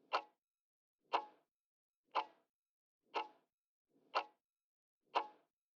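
Clock-tick sound effect, one sharp tick each second, six in all: a quiz countdown timer running while the viewer thinks of the answer.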